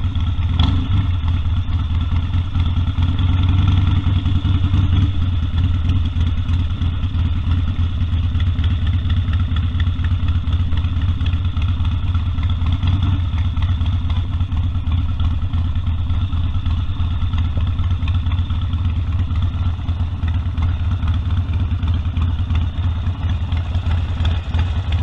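Harley-Davidson Sportster 1200's air-cooled V-twin running steadily at low revs, a deep pulsing exhaust beat, with a slight rise in revs around four seconds in.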